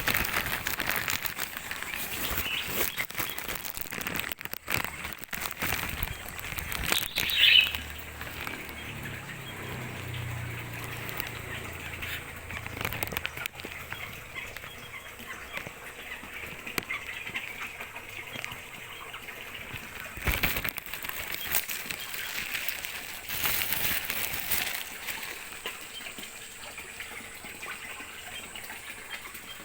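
Birds flapping their wings and moving about, with scattered clicks and rustles and one short, loud call about seven and a half seconds in.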